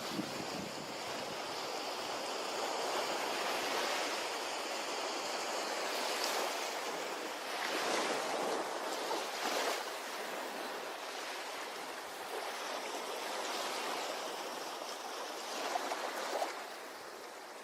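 Ocean surf washing onto a beach in a steady hiss, swelling and easing as waves come in, with the strongest surges about halfway through.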